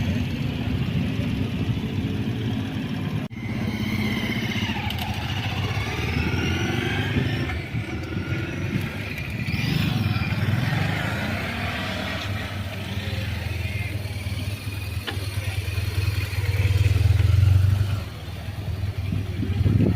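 Motorcycle engines running, with a brief break about three seconds in and a louder stretch near the end that drops off suddenly.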